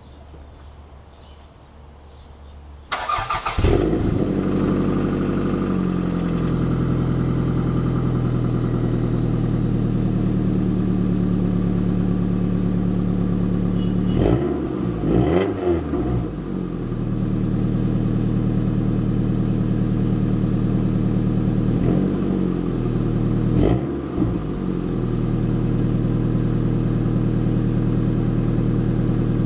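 1994 Toyota Celica GT four-cylinder cold-starting about three seconds in: the starter cranks briefly, the engine catches and settles into a steady idle, heard through an exhaust with the resonator deleted and the stock muffler kept. It is revved briefly twice, around the middle and again about two-thirds in.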